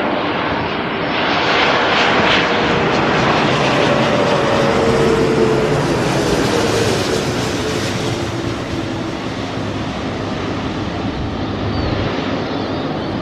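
Jet airliner passing close by, its engine noise swelling and then fading, with a whine that falls in pitch as it goes past.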